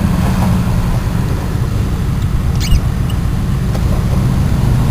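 Steady low hum of an idling engine, with a brief high squeak about two and a half seconds in.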